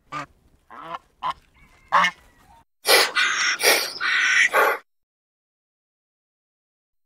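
Domestic goose giving four short honks over the first two seconds. Then about two seconds of louder, harsh, noisy rasping of another kind.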